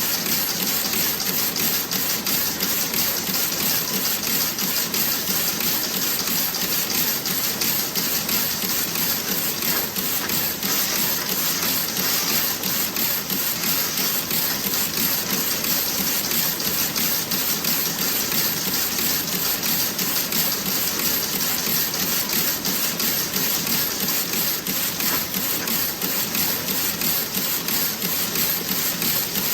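Toe-sock knitting machine running: a fast, even clatter of rapid ticks at a steady level.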